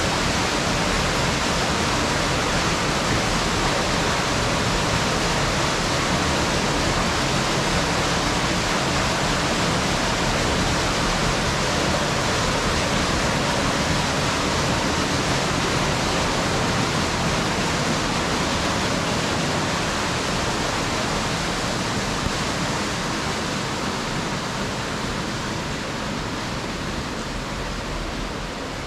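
Steady rush of fast-flowing water, growing a little quieter over the last several seconds.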